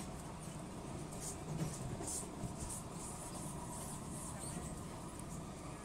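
Steady running noise of a Singapore MRT train heard inside the carriage: a low rumble and hum, with a few short high-pitched hisses in the first half.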